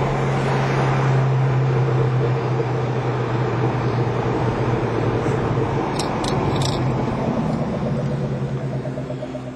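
Car engine droning steadily with road noise, heard from inside a moving car. Three quick clicks come about six seconds in, and the sound eases off near the end.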